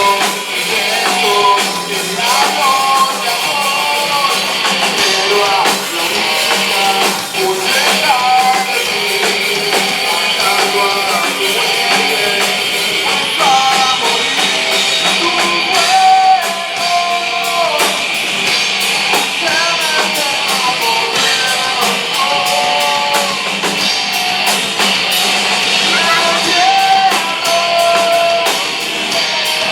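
Live rock band playing: electric guitars and drums with singing, loud and dense throughout, with little bass in the recording.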